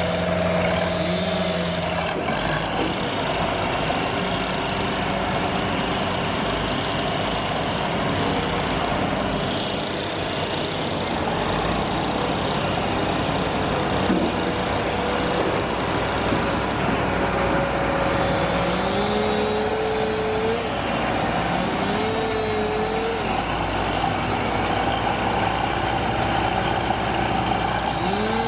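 Engines of heavy trucks or construction machines running steadily. In the second half, an engine's pitch rises and levels off several times, every two to three seconds.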